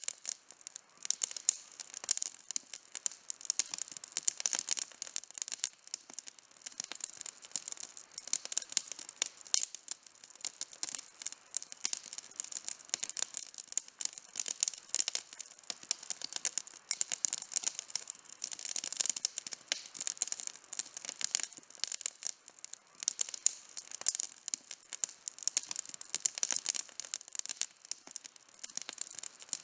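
Outdoor campfire burning with dense, continuous crackling: many small sharp pops and snaps of burning wood, bright and high-pitched, with no low rumble.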